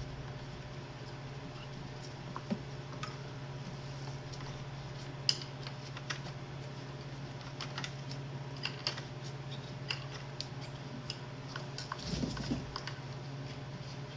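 Scattered light clicks, taps and scrapes of hand tools and parts being handled while cleaning a diesel engine's injector ports, over a steady low hum.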